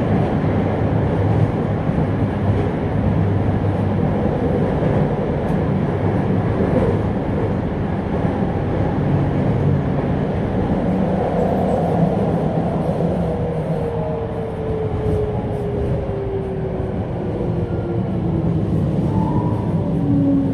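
Toei 5300 series electric train running, heard from inside the car: a steady rumble of wheels and running gear. From about halfway through, a motor whine falls steadily in pitch as the train slows.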